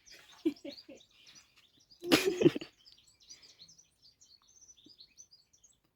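Small birds chirping in the background, with a brief loud rushing burst of noise about two seconds in that lasts under a second.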